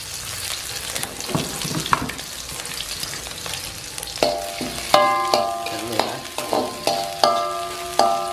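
Sliced shallots and red chilies sizzling in cooking oil in an aluminium wok while being stirred with a spatula. From about four seconds in, the spatula knocks and scrapes against the wok several times, each stroke leaving a short ringing tone.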